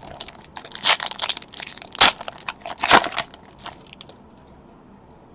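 Trading-card pack wrapper crinkling and crackling as it is torn open, a run of crackles over about four seconds, loudest about two and three seconds in.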